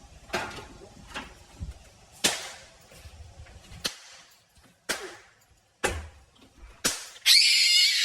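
A door slammed shut over and over: seven sharp bangs about a second apart. Near the end a loud, high-pitched sustained sound starts and carries on.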